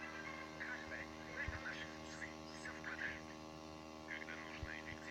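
Steady electrical hum with faint, indistinct voice-like sounds over it.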